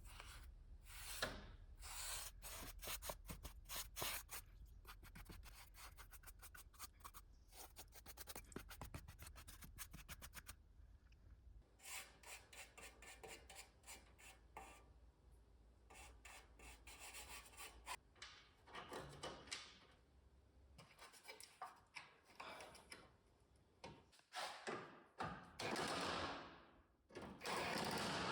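Repeated short scraping and rubbing strokes from parts being cleaned by hand, some in fast runs. A louder rushing noise comes in near the end.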